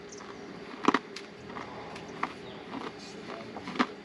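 Someone biting into and chewing a cracker: a few soft, separate crunches, the loudest about a second in.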